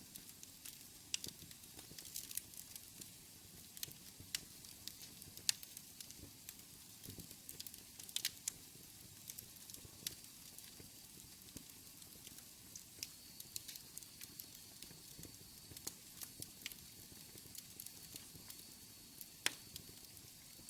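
Wood fire burning in a fireplace, crackling with irregular sharp pops over a low steady rush. Past the middle a faint thin high hiss joins in.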